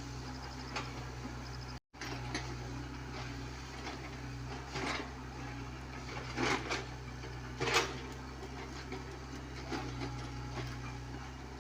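Komatsu PC75UU mini excavator's diesel engine running with a steady low hum, with a few short knocks from the machine's work. The loudest knock comes about two-thirds of the way through.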